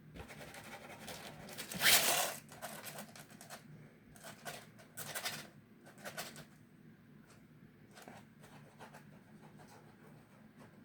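Bursts of scratching and rustling, the loudest about two seconds in, with smaller ones around four to six seconds.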